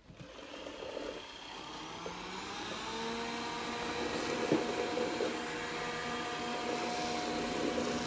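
Dreame D10 robot vacuum running, a steady whirring hum that grows louder over the first few seconds and then holds steady.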